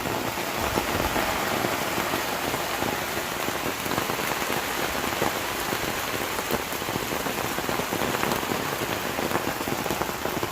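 Steady rain falling, a dense even hiss made of countless individual drop hits.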